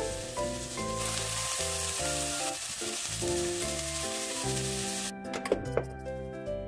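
Chopped green onions sizzling in oil in a nonstick frying pan as a silicone spatula stirs them. The sizzle cuts off a little past five seconds in, followed by a couple of sharp clicks as the stove knob is turned off.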